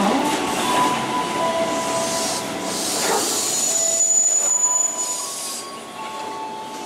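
KRL Commuter Line electric multiple unit running along the platform track, with wheel and rail noise and several steady ringing tones that come and go. The sound fades after about five seconds as the train moves on.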